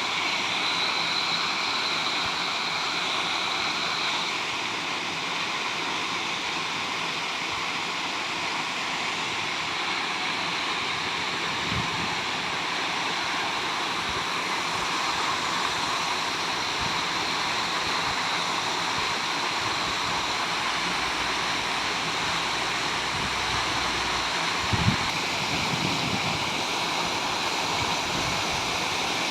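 Water pouring steadily over an artificial waterfall, an even rushing splash, with a brief knock or two near the end.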